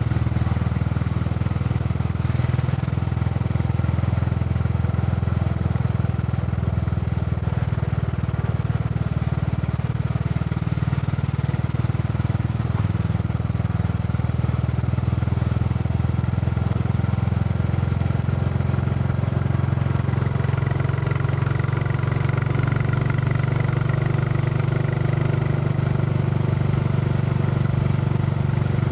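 Royal Enfield Classic 350's single-cylinder four-stroke engine thumping steadily while the motorcycle cruises along a road, with a slight change in engine note about two-thirds of the way through.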